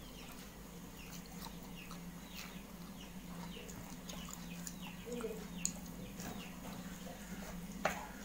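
Birds chirping in the background, a rapid series of short falling chirps, over a steady low hum. Two sharp clicks in the second half, the later one the loudest sound.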